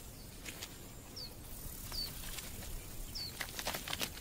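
A small bird giving short, falling chirps, three of them spaced about a second apart, over a faint outdoor background with scattered light clicks.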